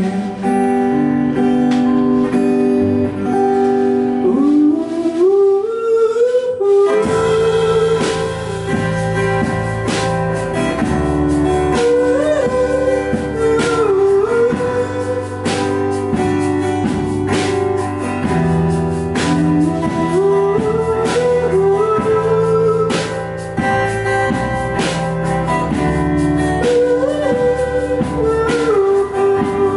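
Instrumental interlude of a Mandopop song: a lead guitar melody with sliding, bending notes over chords. The fuller accompaniment with bass comes in about seven seconds in.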